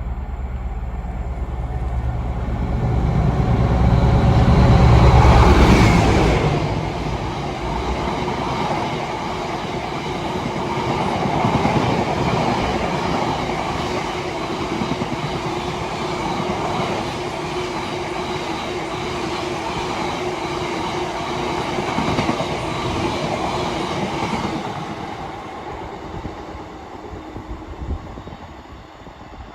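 Freight train passing at speed: the locomotive's low rumble is loudest about five seconds in, then the wagons rattle and clack over the rails for some twenty seconds before fading away near the end.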